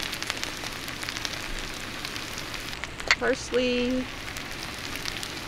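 Sliced potatoes and onions frying in oil and butter on a Skottle disc cooker: a steady sizzle with many small crackles.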